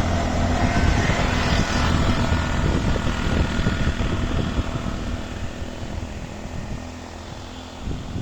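Engine of a moving road vehicle running steadily, with wind and road noise. It is loudest in the first half and eases off toward the end.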